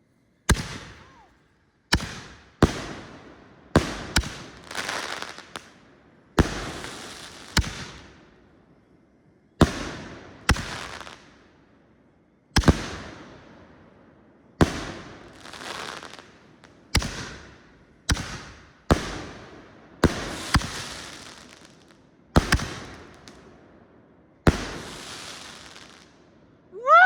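Fused canister firework shells (TNT Monster Shells) firing in sequence: about eighteen sharp booms, irregularly one every second or two, each with a long fading tail. Right at the end there is a loud meow-like cry.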